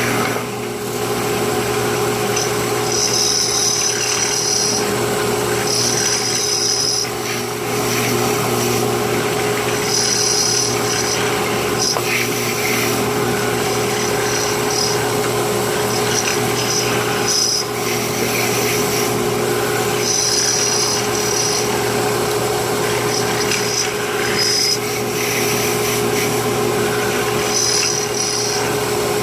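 Electric drill running steadily as its bit bores lengthwise into a pen blank in several strokes. A high scraping cut comes and goes every few seconds as the bit is fed in and backed out to keep the blank from overheating and the hole from wandering.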